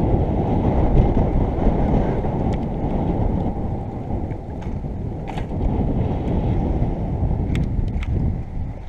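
Wind buffeting the microphone of a camera on a moving bicycle riding into a stiff headwind: a dense, steady rumble, with a few faint clicks in the second half.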